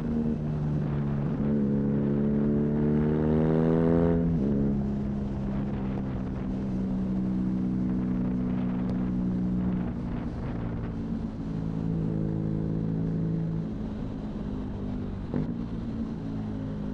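BMW R nineT's boxer twin, fitted with an Arrow high-mounted exhaust, accelerating with its note rising, then dropping sharply at an upshift about four seconds in. It then runs at a steady cruise, with wind noise on the microphone.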